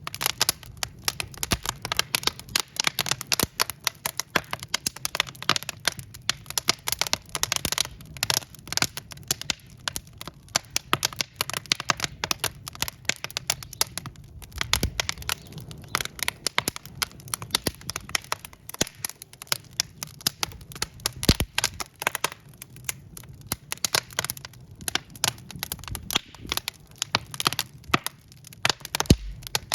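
Wood fire in a fireplace crackling: burning logs giving dense, irregular pops and snaps, many a second, over a low steady rumble of flame.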